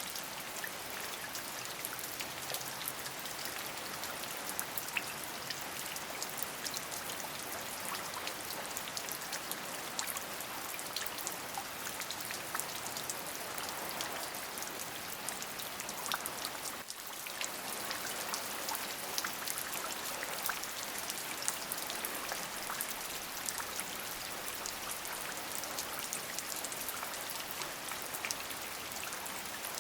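Steady rain: an even hiss of falling water with many small, separate drop ticks, dipping briefly about seventeen seconds in.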